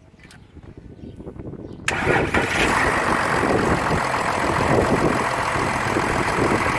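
Volkswagen Touareg 3.0 TDI V6 diesel engine (code CRCA) cranking briefly, catching about two seconds in, and then running steadily.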